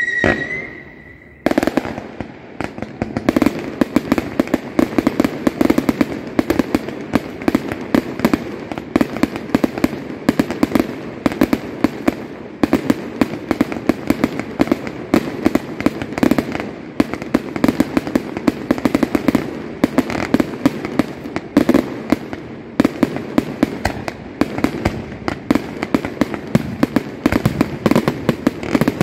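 Fireworks display: a high wavering whistle cuts off about a second and a half in. Then comes a dense, continuous barrage of rapid cracks and bangs, many shells bursting close together.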